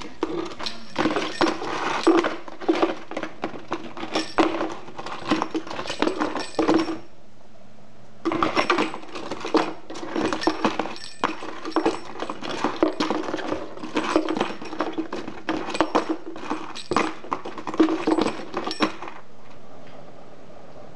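Small metal bell toy being rung and bashed by a Pyrrhura conure, a rapid jangling of many strikes in two long bouts, with a pause of about a second seven seconds in and a stop about nineteen seconds in.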